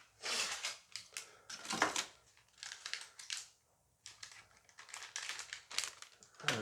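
Crinkling and crumpling of a foil booster pack wrapper as it is torn open and handled, in several rustling bursts with short pauses between.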